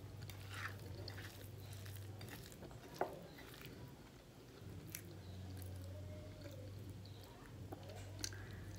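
A person eating chicken and beans with her hands: faint chewing and mouth sounds, with scattered small clicks and one sharper click about three seconds in, over a steady low hum.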